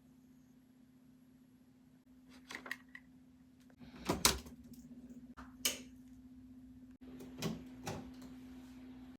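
A few short clicks and knocks of objects being handled, the loudest about four seconds in, over a steady low hum.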